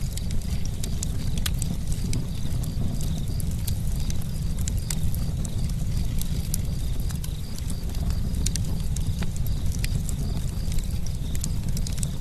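Campfire burning with a low steady rumble and frequent sharp, irregular crackles and pops.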